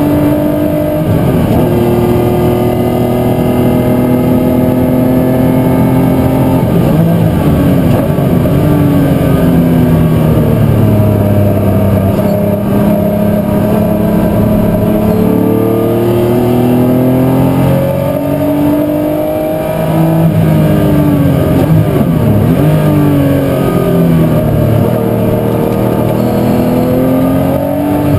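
A racing muscle car's V8 engine running hard on track: the engine note climbs under acceleration, drops low twice as the car slows for corners, and climbs again.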